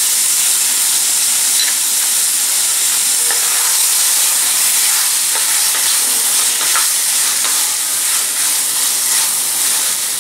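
Chicken pieces and roasted spice masala sizzling in a pressure-cooker pan on a gas flame, a loud steady hiss, while a wooden spatula stirs them through the pan.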